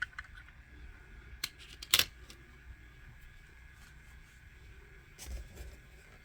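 A few small clicks and taps from a diecast model car being handled, the sharpest about two seconds in, with a soft thump a little past five seconds.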